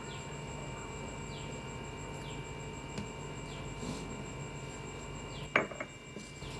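A single sharp clink of kitchenware, ringing briefly, about five and a half seconds in. Under it is a steady low hum and faint short chirps, falling in pitch, about once a second.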